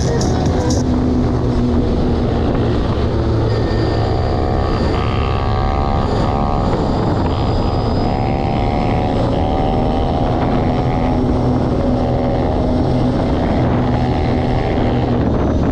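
Pit bike engine running while being ridden, its revs rising and falling again and again as the throttle is worked.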